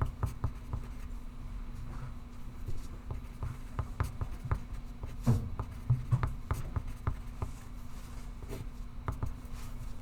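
Pencil writing on paper, a run of short irregular scratches and taps, with a few louder knocks about five and six seconds in, over a steady low hum.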